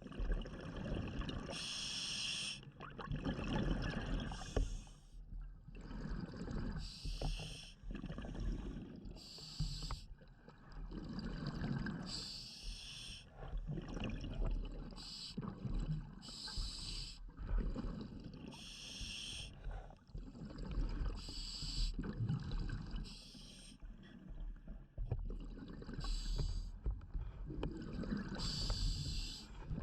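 Scuba diver breathing through a regulator underwater: short hissing inhalations alternate with low rumbling bursts of exhaled bubbles, in a steady rhythm every couple of seconds.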